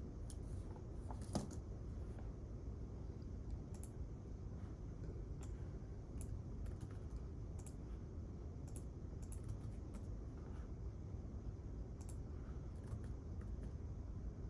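Sparse, irregular keyboard clicks, like occasional typing, over a steady low room hum.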